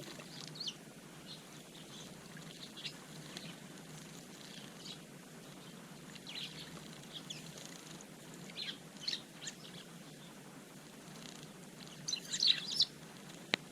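Eurasian tree sparrows chirping in short, scattered calls, with a quick flurry of chirps near the end. A single sharp click comes just before the end.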